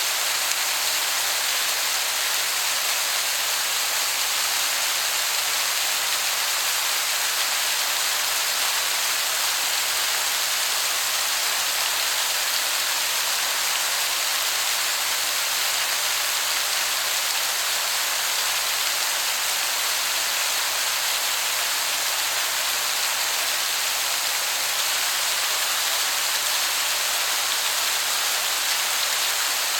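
Waterfall rushing steadily, heard from far enough away to sound like heavy rain: an even, unbroken hiss.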